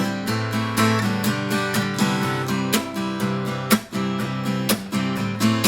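Acoustic guitar strummed in a steady rhythm, playing chords as a song's instrumental intro, with a brief break in the strumming a little before the four-second mark.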